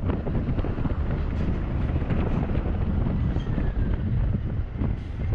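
Wind buffeting the microphone while riding a Honda Forza 350 scooter, a steady rumbling rush with the scooter's running and road noise underneath.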